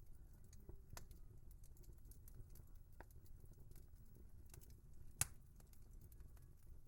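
Wood fire crackling faintly: scattered small snaps, with one sharp pop about five seconds in.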